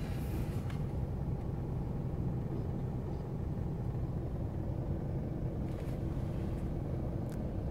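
Car engine idling as the car creeps forward, a steady low rumble heard from inside the cabin, with a few faint ticks.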